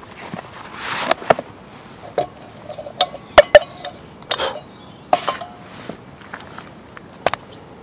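Metal cookware and utensils clinking and knocking, some strikes ringing briefly, with a few short scraping swishes between them. The two loudest clinks come close together about three and a half seconds in.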